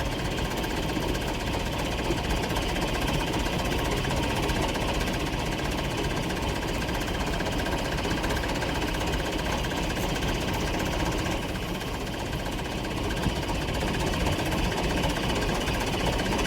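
A vehicle engine running steadily, with a fast knocking rattle.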